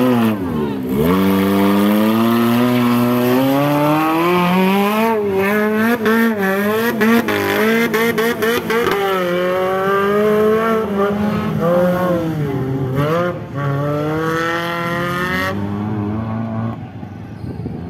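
Off-road 4x4's engine revving hard, its pitch climbing, wavering up and down and dipping as the throttle is worked. It eases off and gets quieter near the end.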